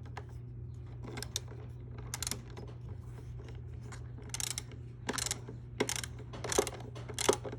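Ratchet wrench clicking in a series of short strokes, tightening bolts, the strokes coming quicker in the second half; a steady low hum underneath.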